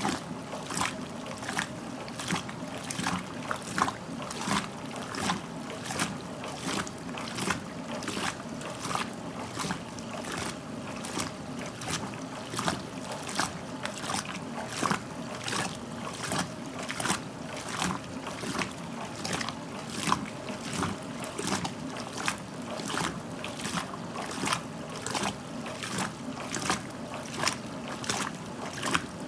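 1969 Westinghouse LAJ 535A3 front-loading washer tumbling a load in the wash: water splashes in an even rhythm, more than once a second, as the clothes drop in the turning drum, over the steady hum of the motor.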